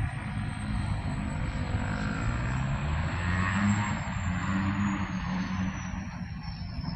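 Wind buffeting the camera microphone: a gusty low rumble with a rush of noise that swells a little past the middle. A thin high whine runs throughout and slowly falls in pitch in the second half.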